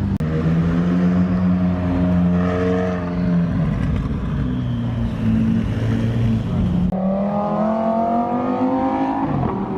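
Performance car engines running and revving as cars pull away, the pitch holding steady at first, then a sudden switch about seven seconds in to a higher, slightly rising engine note that drops off near the end.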